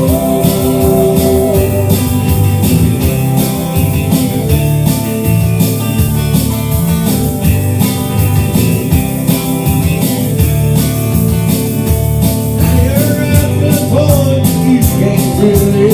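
A country-rock band playing an instrumental passage: guitar over bass and drums with a steady beat.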